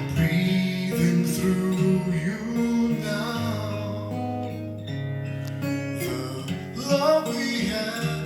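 Music: an acoustic guitar strumming chords over held low notes, with a melody gliding above them.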